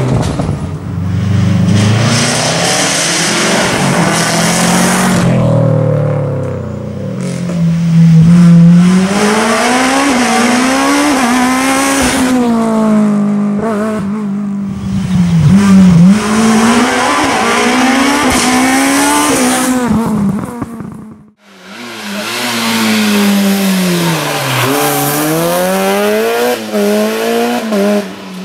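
Rally car engines revving hard through gear changes, the pitch climbing and then dropping with each shift. About three quarters of the way through the sound drops out abruptly, then another car's engine takes over, revving the same way.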